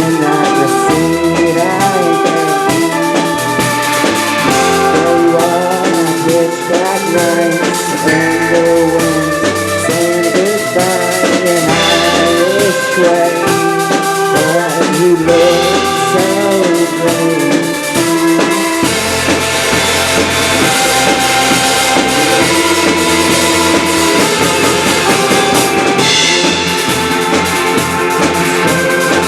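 A live band playing a song, with a full drum kit and pitched instruments; the low end shifts about two-thirds of the way through.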